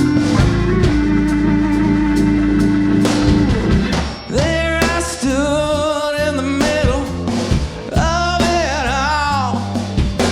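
Live band playing a blues-rock song, with guitar and drums. A long note is held for the first few seconds, then a singer comes in with vibrato about four seconds in.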